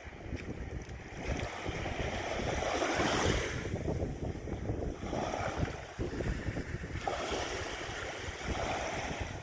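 Sea water washing and splashing in rising and falling swells, with wind buffeting the microphone.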